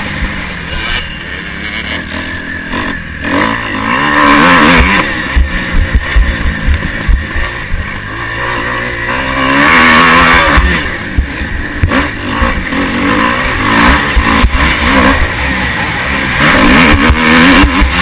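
Motocross bike engine heard from an onboard camera, revving up and dropping back again and again as the rider accelerates and shifts through the gears, over a heavy low buffeting rumble.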